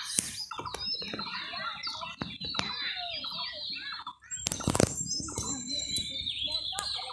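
Small birds chirping and twittering, with a thin steady high whistle under the calls. There is one loud thump just before five seconds in.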